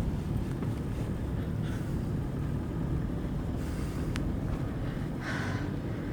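Steady low drone of a Toyota Fortuner's 2KD-FTV 2.5-litre four-cylinder turbodiesel and road noise, heard from inside the cabin while driving. There is a short click about four seconds in and a brief higher sound near the end.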